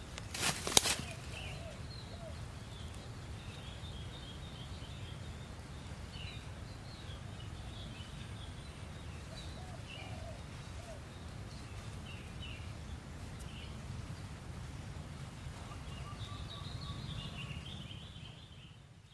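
Birds chirping, with scattered short high calls that cluster into a denser chatter near the end, over a steady low rumble of wind or handling noise. A few sharp knocks come in the first second, and the sound fades out at the end.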